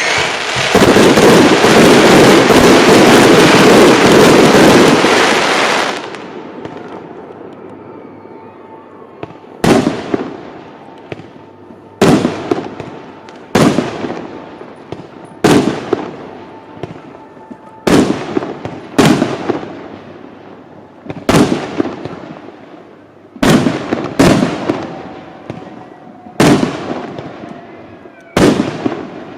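A fireworks display: a loud, dense barrage of rapid bursts lasting about five seconds. After a short lull come about a dozen single sharp bangs, one every second or two, each trailing off in an echo.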